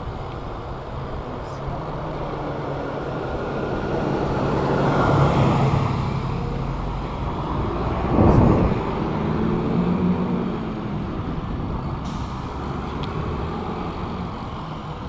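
Motor vehicles passing on a road, their engines humming steadily. The sound swells as one passes about five seconds in, and a louder pass comes about eight seconds in.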